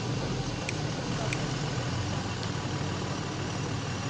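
A heavy vehicle's engine running steadily, with two faint clicks in the first second and a half.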